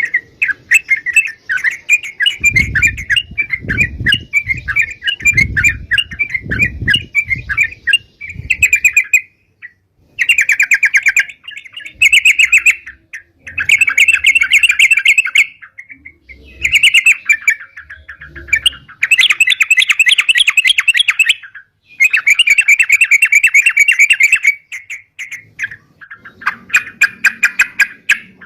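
Yellow-vented bulbul (crucukan) singing hard: a fast, continuous run of chattering notes, in bursts a few seconds long separated by short pauses. Low thumps sound under the song for roughly the first nine seconds.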